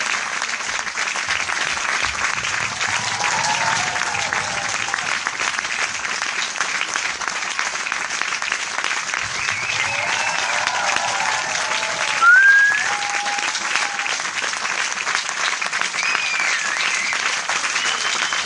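Large crowd applauding steadily, with scattered voices calling out over the clapping and a short rising call about twelve seconds in, the loudest moment.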